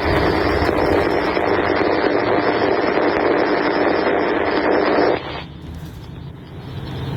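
Freight train cars rolling past close by, a loud steady rush of wheel and rail noise that drops away abruptly about five seconds in, leaving a quieter low rumble with a faint steady hum.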